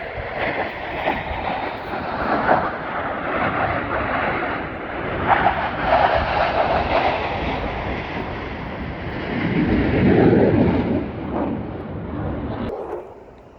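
Airplane engine noise, a steady roar that swells to its loudest about ten seconds in and drops away sharply near the end.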